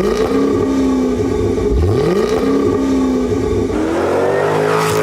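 Jaguar F-Type sports car engine revving, its pitch climbing steeply and holding, three times over.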